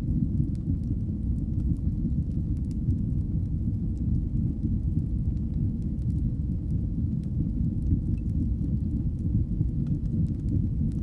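Fire burning in a fireplace: a steady low rumble of flames with a few faint, scattered crackles.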